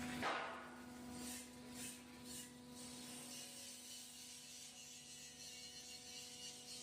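A steady low hum with faint higher overtones, and a brief rush of noise near the start.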